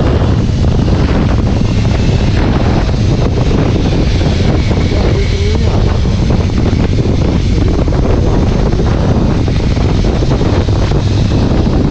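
Steady wind buffeting the microphone over the constant running of a vehicle in motion.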